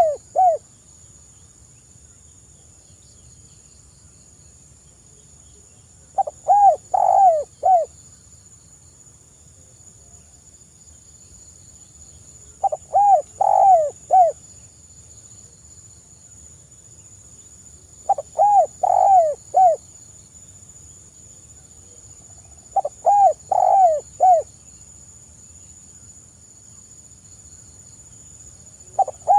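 Spotted dove (tekukur) cooing: short phrases of three or four low coos, repeated about every five to six seconds.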